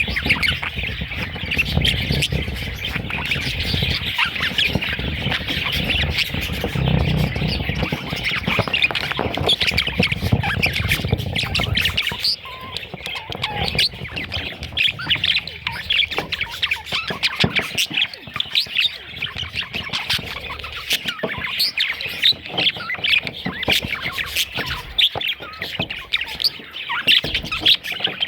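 A group of budgerigars chattering and squawking, many short, rapid calls overlapping without a break. A low rumbling noise runs under the calls for about the first twelve seconds, then drops away.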